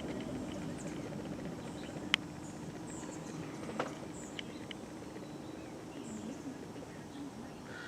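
A low outdoor rumble slowly dying away, with faint bird chirps and two sharp clicks, the first about two seconds in.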